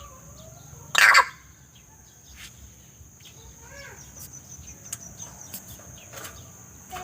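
Cage birds calling: a loud, harsh screech about a second in, then softer calls and a short whistled note, over a steady high-pitched tone.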